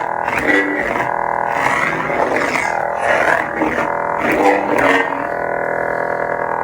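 Lightsaber sound font playing from a saber's soundboard: a steady buzzing hum with repeated swing swells about once a second, then the hum alone for the last second or so.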